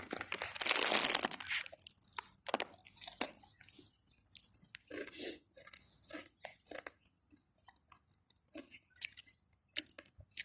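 A chip bag crinkling for about a second and a half, then a cat crunching and chewing potato chips in short, irregular crunches.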